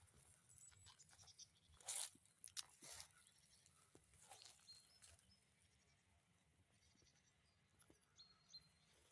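Quiet forest ambience with a few irregular crunching footsteps on leaf litter, loudest about two seconds in, and a few brief high bird chirps.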